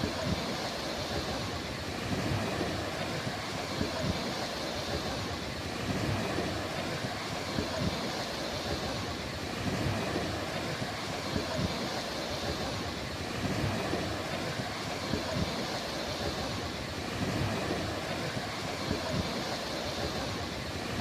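Ocean surf washing onto the shore, a steady rush that swells and eases every three to four seconds as waves break, with gusty low rumble from wind on the microphone.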